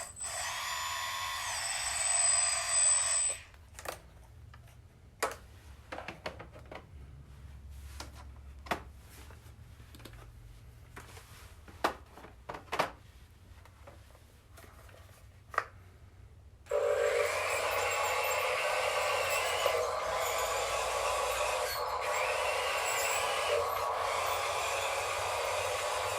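Small electric motors and gearboxes of RC construction models whining as they run, stopping about three seconds in. A quiet stretch follows with scattered sharp clicks and knocks, and the whine starts again about 17 seconds in and runs steadily.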